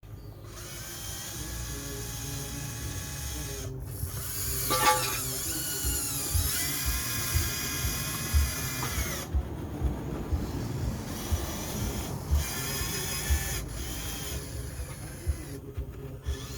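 Electric motors of a Huina 1599 remote-control excavator whining as its hydraulics work, the pitch dropping and rising as the motors are loaded and eased, with several short pauses when they stop and start again.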